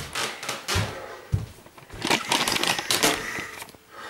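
A bag and its contents being handled: scattered knocks and clicks, then a dense crinkling rustle from about two seconds in that lasts over a second.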